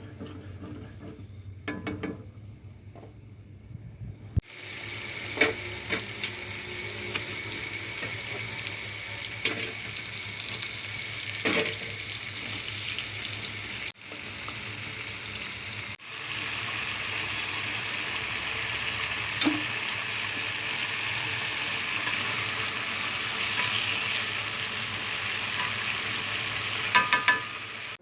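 Food frying in a pan: a steady sizzle that starts suddenly about four seconds in, with scattered clicks and a few knocks, and drops out briefly twice.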